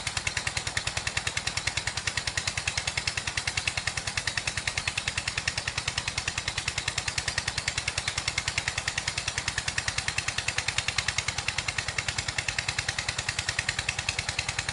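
A small engine running steadily at an even, rapid beat.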